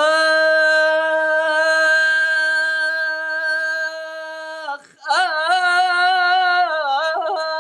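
A man singing an Iraqi song unaccompanied. He holds one long, steady vowel for about four and a half seconds, then after a brief breath draws out a second phrase with a wavering, ornamented melody.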